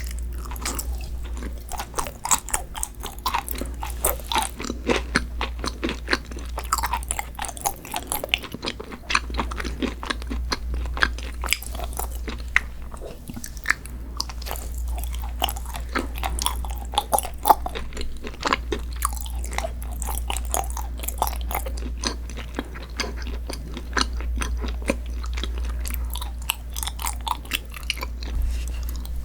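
Close-miked eating: crisp bites and crunching followed by wet chewing of sweet desserts, a dense run of sharp crackles over a steady low hum.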